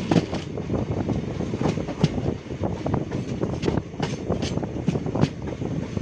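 A train running along the track: a steady rumble with irregular short clatters from the wheels on the rails.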